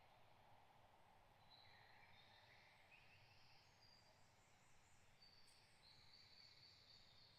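Faint birdsong: several short high-pitched song phrases from small birds, starting about a second and a half in, over a soft steady hiss of forest ambience.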